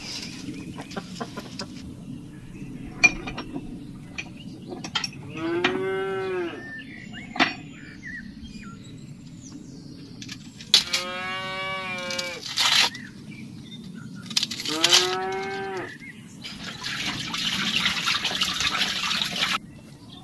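A cow mooing three times, each call lasting a second or more and rising then falling in pitch. Near the end comes a loud rushing hiss lasting about three seconds.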